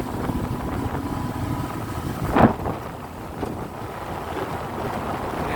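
Motorboat running on the water, with wind buffeting the microphone. A brief louder sound cuts through about two and a half seconds in.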